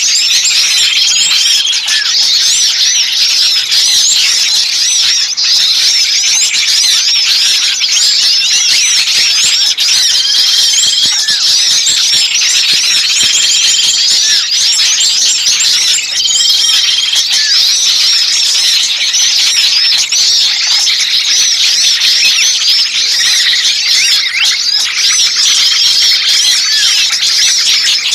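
Dense, noisy chorus of many small songbirds chirping and squeaking over one another, high-pitched, with a short whistled note recurring every few seconds. It is a looped bird-luring recording of agitated, distressed small birds, used to draw other birds in.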